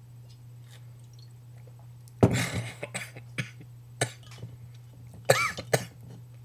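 A man coughing and clearing his throat in a string of short, harsh bursts, starting about two seconds in and again near the end, over a steady low hum.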